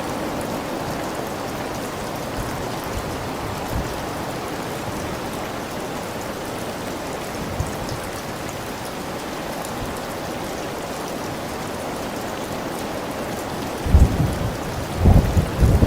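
Steady rain falling, an even hiss of drops on surfaces, with a few short low thuds near the end.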